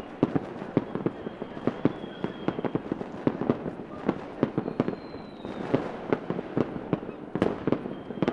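Fireworks going off in rapid succession: many sharp bangs, several a second, over a constant crackle, with a few faint high whistles dipping slightly in pitch.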